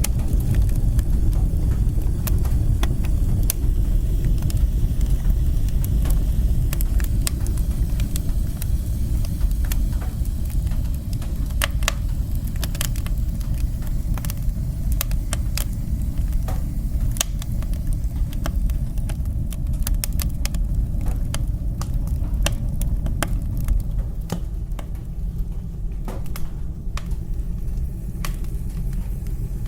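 Wood fire burning in a fireplace: a steady low rumble of flame and chimney draught with frequent sharp, irregular crackles and pops.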